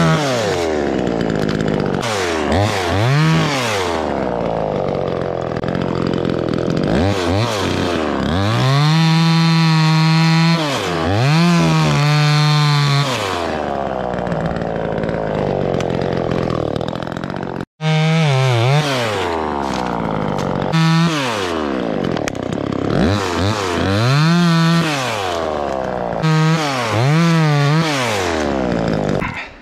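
Two-stroke chainsaw cutting through tree limbs, the engine revving up and down over and over and held at full throttle for a few seconds at a time. The sound cuts out for an instant about two-thirds of the way through.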